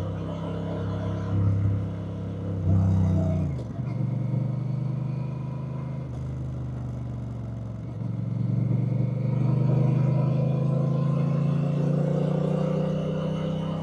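Honda Rebel 1100's parallel-twin engine running under way. Its pitch drops sharply about three and a half seconds in, then it holds a steady note and grows louder from about eight seconds in.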